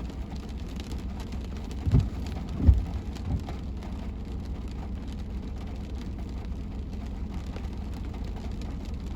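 Steady low road and engine rumble of a moving car heard from inside, with rain noise over it. Three short low thumps come about two to three and a half seconds in.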